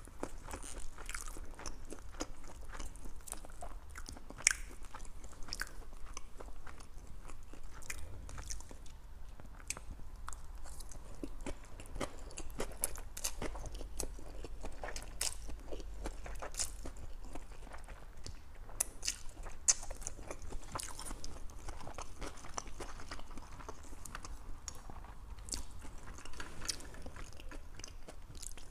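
A person chewing mouthfuls of lo mein noodles close to a clip-on microphone, with many small, sharp, wet mouth clicks throughout.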